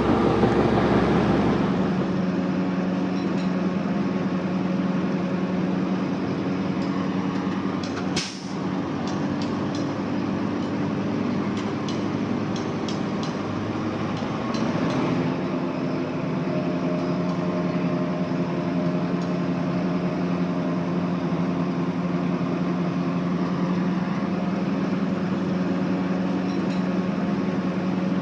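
Heavy diesel engine of earthmoving machinery running steadily, with a series of sharp metallic clanks between about 8 and 15 seconds in and a change in engine pitch soon after.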